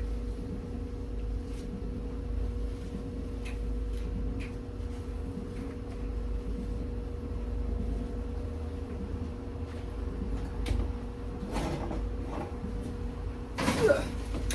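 Light kitchen handling: scattered faint clicks and knocks over a steady low hum, with a louder clatter of dishes or utensils near the end.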